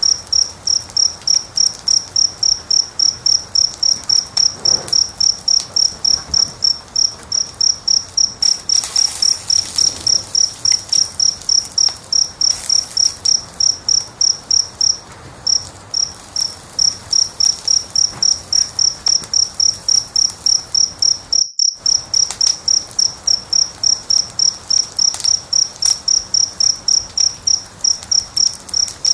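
A cricket chirping in a steady, even rhythm, high-pitched and about three chirps a second, over the faint crackle of a wood fire. All sound cuts out for a moment about three-quarters of the way through.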